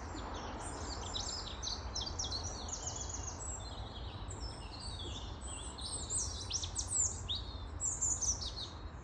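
Several small birds chirping and singing at once, a busy run of short, overlapping calls, over a steady low rumble.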